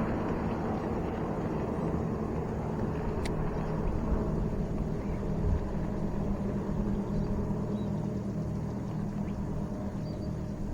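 Boat motor running steadily with a low hum, easing off slightly near the end.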